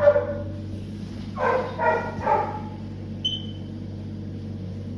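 A dog barking: one bark right at the start, then three quick barks about one and a half to two and a half seconds in. A steady low hum runs underneath, and a brief high beep comes about three seconds in.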